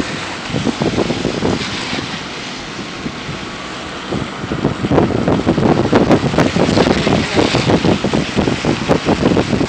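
Wind buffeting the microphone outdoors, a loud rushing noise in irregular gusts that grow stronger about halfway through.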